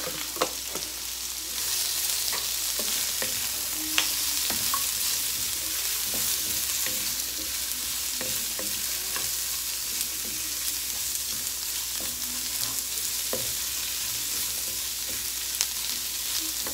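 Sliced red onion, garlic and ginger sizzling in hot oil in a deep pan, stirred with a wooden spatula that knocks against the pan now and then. The sizzle gets a little louder about a second and a half in.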